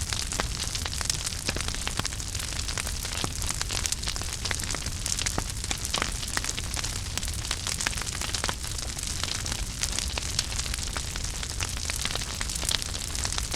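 Wood fire in a fireplace burning steadily: a constant hiss with frequent small crackles and pops, over a low rumble.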